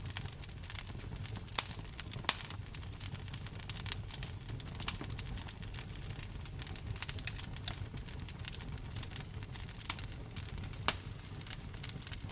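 Wood fire crackling: irregular small snaps and pops over a low steady rumble of burning, with a few sharper pops standing out, about one and a half and two seconds in and near the end.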